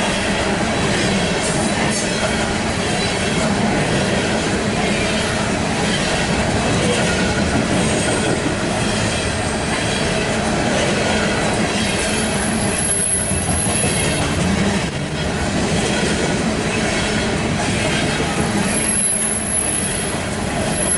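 Loaded CSX coal train rolling steadily past, with the steel wheels of its cars running on the rail. A thin, high wheel squeal rises twice, about halfway through and again near the end.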